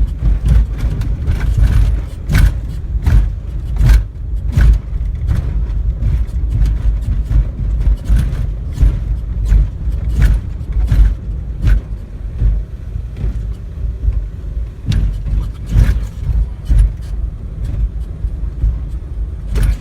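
Car driving, heard from inside the cabin: a steady low rumble with frequent short knocks and rattles.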